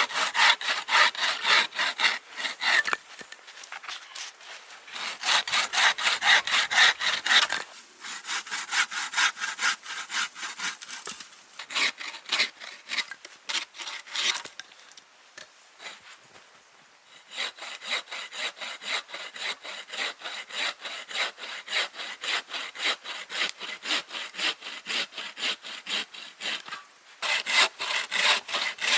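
Hand saw cutting through wood with quick, even back-and-forth strokes, in several bouts broken by short pauses.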